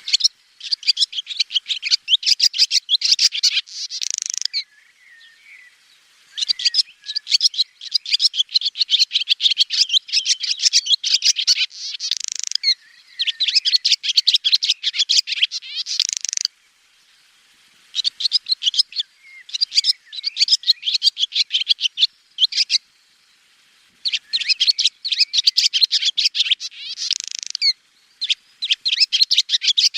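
Swallow singing: bouts of rapid, high twittering chirps and trills, each a few seconds long, with short pauses between them.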